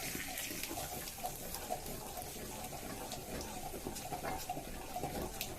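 A spoon stirring a thin butter, chilli-sauce, ketchup and vinegar sauce as it cooks in a pan: a steady wet sizzle with light, scattered clicks of the spoon against the pan.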